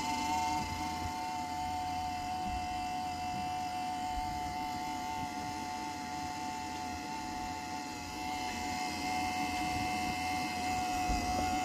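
Power adapter of a Pecron E600LFP portable power station whining steadily on two close high pitches over a low hum while charging. This is the abnormal noise the owner is puzzling over.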